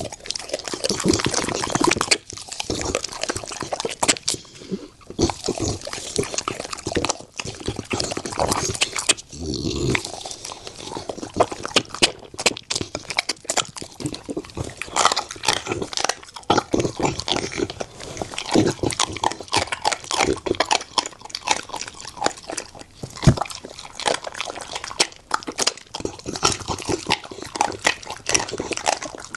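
A bully-breed dog eating, with wet chewing and a dense run of irregular crunches as it bites through bone-in raw crocodile leg and meat.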